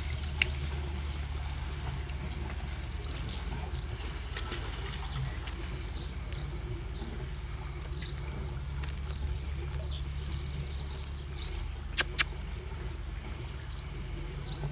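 Small birds chirping over and over in short, quick, mostly falling calls, over a steady low rumble. Two sharp clicks come close together about twelve seconds in.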